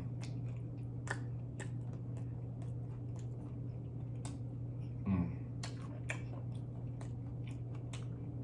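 Close-miked chewing with scattered wet mouth clicks and smacks, over a steady low hum. A short voiced "mm" about five seconds in.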